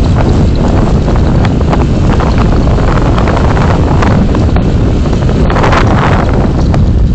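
Road and wind noise of a moving car, picked up by a dashcam microphone, loud and steady with many small clicks and rattles on top.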